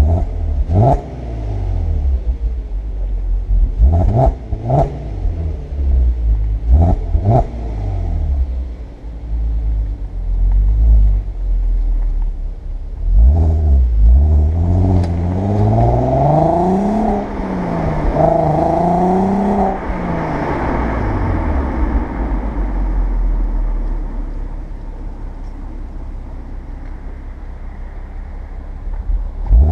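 Audi A3 8P 3.2 quattro's 3.2-litre VR6 engine through its stock exhaust. It idles and is blipped in several quick revs during the first eight seconds, then is held up in a longer rev that rises and falls from about 13 to 20 seconds before dropping back to idle.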